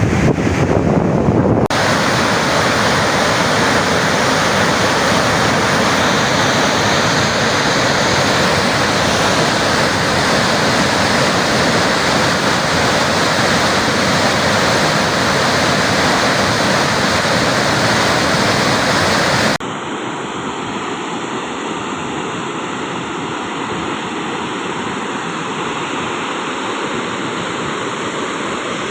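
Floodwater rushing through the Tarbela Dam service spillway as a loud, steady wash of noise. It changes abruptly twice, once shortly after the start and once about two-thirds of the way through, where it becomes a little quieter and duller.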